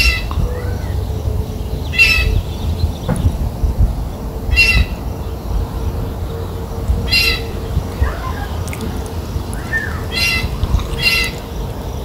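An unidentified bird in the tree gives a short, harsh call six times, spaced two to three seconds apart, with a couple of fainter sliding notes between them. A low wind rumble on the microphone runs underneath.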